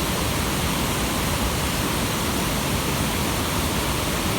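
Waterfall: water pouring over a wide rock ledge with a steady, even rush.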